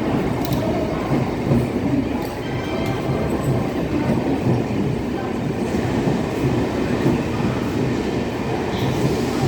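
Indian Railways train running along the rails: a steady, even rumble of wheels and coaches with a few faint clicks.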